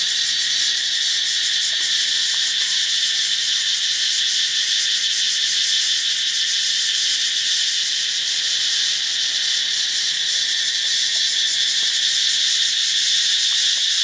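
Katydids calling in a loud, continuous chorus: a steady high-pitched buzzing racket that holds at one level throughout.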